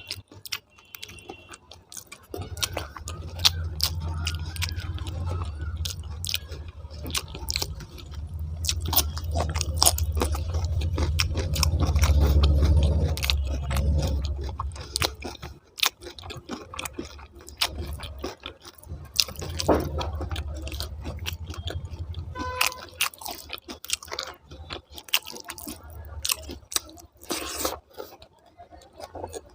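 Close-miked chewing of soft rice and potato curry, with many short wet mouth clicks and smacks. A low rumble runs under the chewing for much of the first half and returns briefly later.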